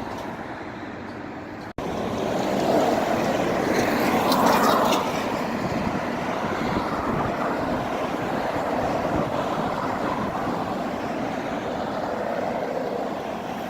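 Steady roadside traffic noise, with a vehicle passing that swells to its loudest about four to five seconds in, then settles back to a steady rumble.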